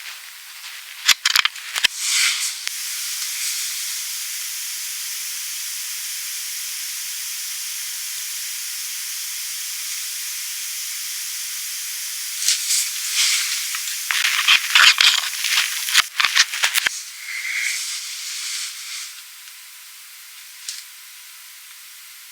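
Constant hiss from the Logitech UE 9000 headphones' active noise cancellation circuit, audible whenever the headphones are powered on and picked up close with heavy microphone gain. Loud cracks and crackles break in a second or two in and again in the middle, and the hiss drops to a lower level near the end.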